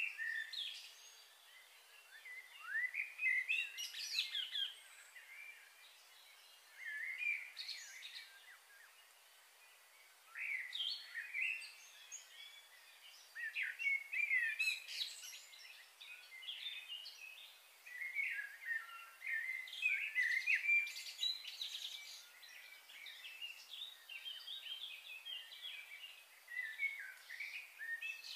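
Small birds chirping and twittering in bursts of quick, high notes, with short pauses between the bursts.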